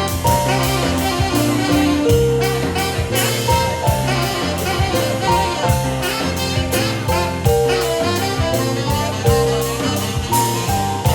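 Live jazz-styled band in an instrumental break: a saxophone plays held melodic notes over keyboard, electric bass and a drum kit keeping a steady beat.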